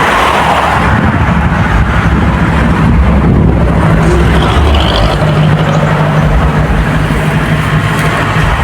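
A motor engine running steadily with a low hum and a noisy rush, its pitch shifting slightly about halfway through.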